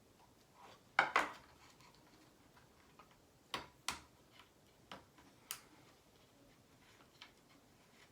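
Sharp clicks and light knocks of small metal parts and tools being handled during assembly of an RC helicopter engine mount: two quick pairs, then a few single, lighter taps.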